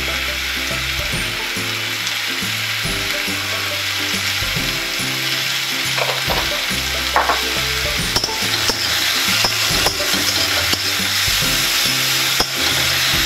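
Sliced mushrooms and onion sizzling steadily in hot oil in a steel kadai on a gas flame, just salted. A metal spatula scrapes and knocks against the pan a few times, with stirring near the end.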